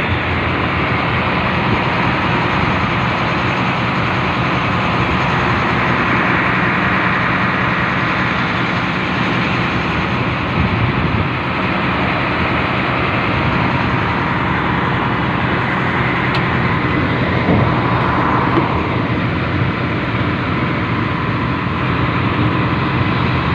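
Train heard on board, running steadily: a constant low engine drone under a loud, even rolling noise, with a brief swell of higher noise about three-quarters of the way through.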